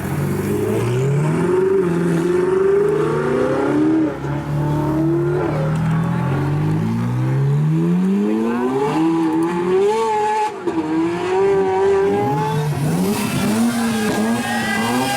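Performance car engines revving and accelerating away, the engine pitch climbing and dropping back several times as they shift up through the gears.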